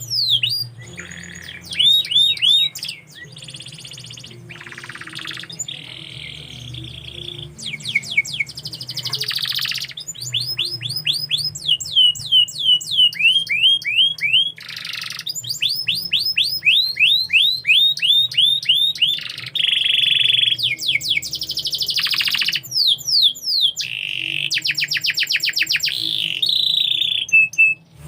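Domestic canary singing a long, continuous song. It runs through fast trills and runs of rapidly repeated falling notes, with some held whistles, and changes phrase every second or two.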